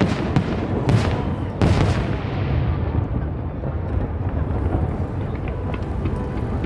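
Aerial firework shells bursting: three sharp bangs within the first two seconds, each trailing off into a rolling echo, then a steady low rumble.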